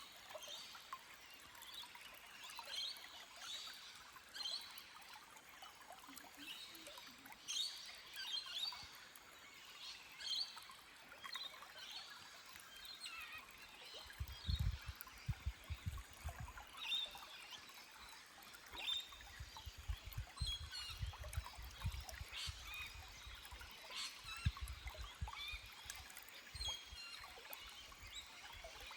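Small birds chirping and calling over a gently flowing, trickling forest stream. Bouts of low rumbling come in around the middle and again in the later part.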